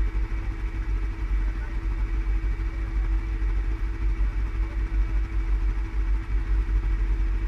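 ATV engine running steadily at low revs, a constant low rumble with a steady hum and no change in speed.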